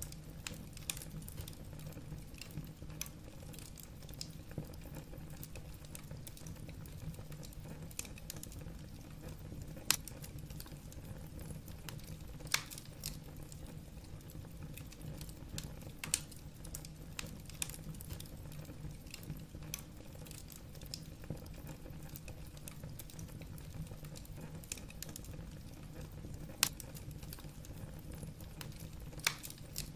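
Wood fire burning in a fireplace: logs crackling with irregular small snaps and a few louder pops over a low, steady rumble of the flames.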